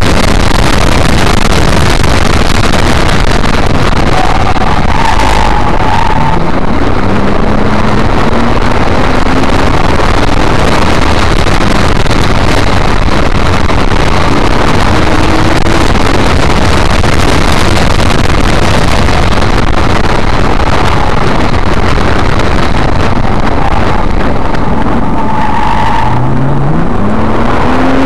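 Nissan GT-R's twin-turbo V6 and road noise heard from inside the cabin during a track lap, loud and distorted on the dash recorder's microphone. The engine note rises under acceleration twice: about five seconds in, and again near the end.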